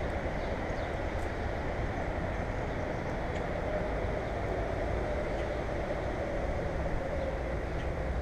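Steady low rumbling noise with a faint held hum, and a few faint, brief high chirps.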